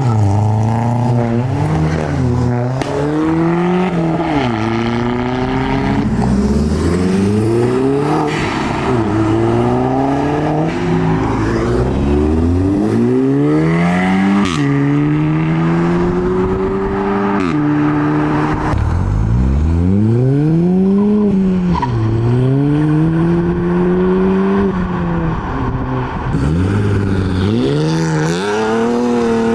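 Engines of modified cars revving hard and accelerating, loud throughout, the pitch climbing and then dropping sharply again and again as the revs rise and fall through gear changes and throttle blips.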